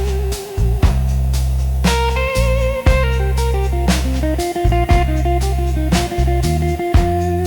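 Slow blues instrumental: an electric lead guitar plays sustained, vibrato-laden notes over bass and a steady drum beat.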